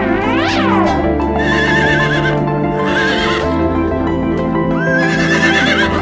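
Horse whinnying about four times in high, quavering calls over steady background music.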